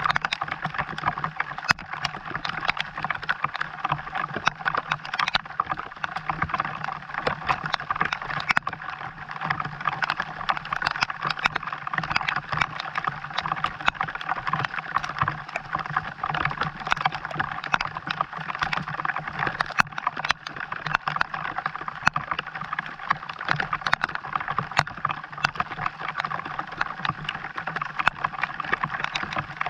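Steady rain falling, a dense patter with many sharp drop ticks.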